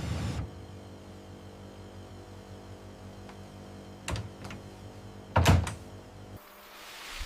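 A few dull knocks or thuds, the loudest about two-thirds of the way in, over a steady low hum that cuts off suddenly near the end.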